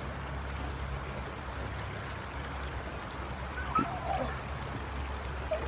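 Creek water rushing over rocks in a steady, even rush.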